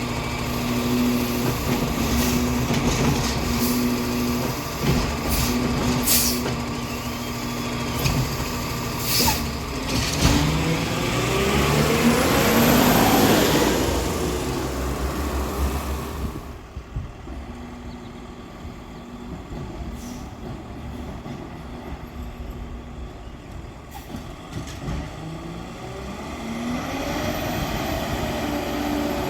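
Freightliner 108SD garbage truck's diesel engine running with several knocks and clanks in the first half, then pulling away with the engine rising as it gathers speed about ten seconds in. It drops back to a quieter run partway through and climbs again near the end.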